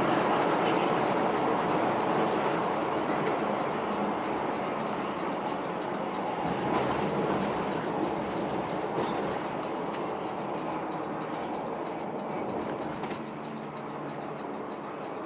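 Intercity bus travelling on the road: a steady mix of engine and road noise with a faint low hum, slowly growing quieter.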